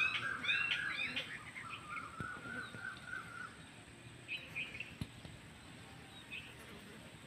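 Small birds chirping, a quick run of high chirps loudest in the first second and a half, then a lower string of rapid notes until about three and a half seconds in, with a few fainter chirps after that.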